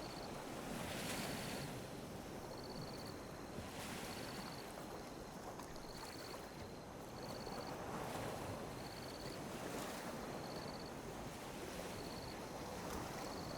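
Calm sea waves lapping and washing on a beach, each wave a soft swell of surf every few seconds. A faint, high, short chirp repeats steadily, a little more often than once a second.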